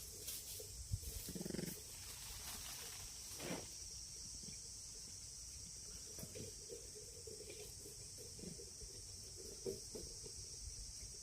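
Steady high insect chirring, with a short, rough animal growl about a second and a half in and a few faint knocks.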